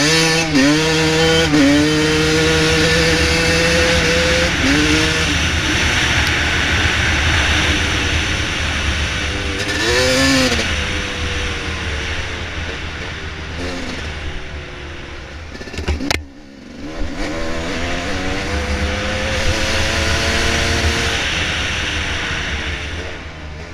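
Dirt bike engine being ridden on a trail, its pitch rising and falling as the throttle opens and closes, with a rushing noise over it. About two-thirds of the way through the engine note drops out suddenly with a click, then picks up again.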